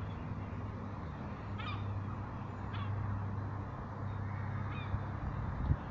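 A bird gives three short, sweeping calls over a steady low hum.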